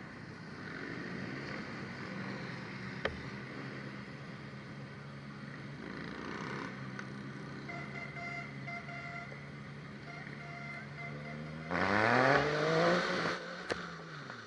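A vehicle engine running steadily at idle, then revved up once about three-quarters of the way in, its pitch climbing and then dropping back near the end. A sharp click sounds about three seconds in.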